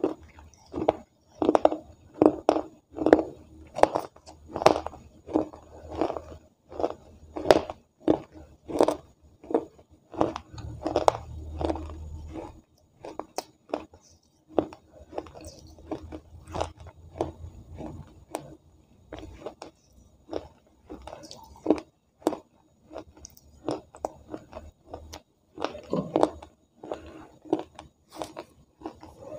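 A person chewing food close to a clip-on microphone, steady chews about one and a half a second with sharp mouth clicks.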